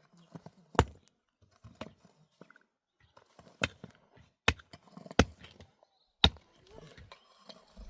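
Sharp knocks of something hard being struck, five loud ones at irregular intervals with fainter knocks between.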